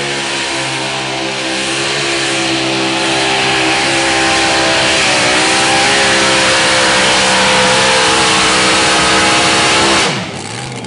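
Mini unlimited pulling tractor's engine running at full throttle under load during a pull, a steady, loud, high engine note that builds over the first few seconds, then cuts off suddenly near the end.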